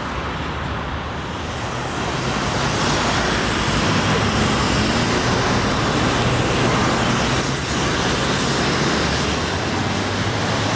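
Railway train noise: a steady rushing sound with a low hum underneath, growing louder about two seconds in.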